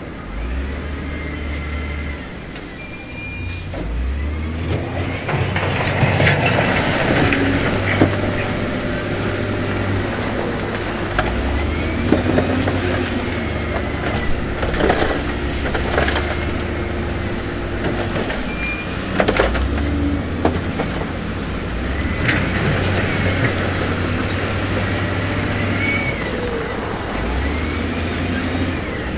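Diesel engines of heavy earthmoving machinery working, the engine speed stepping up and down every few seconds. Sharp metallic clanks and short squeals, like tracks and steel running gear, are mixed in.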